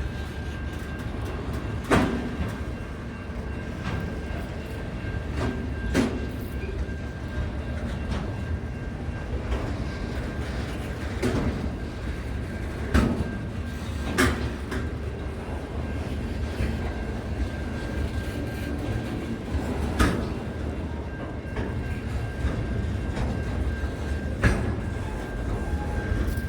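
A train running on the rails with a steady rumble and a steady high-pitched tone, broken by sharp clacks of the wheels over rail joints every few seconds.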